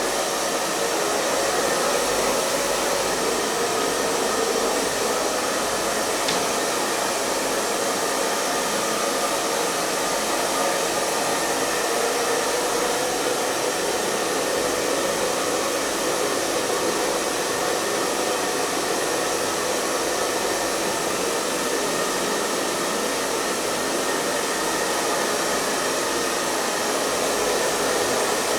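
Hair dryer running continuously at a steady pitch and level: an even airy rush with a faint motor hum in it.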